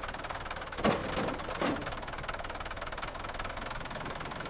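A small engine running steadily with a fast, even knocking pulse, with two brief louder sounds about one and one and a half seconds in.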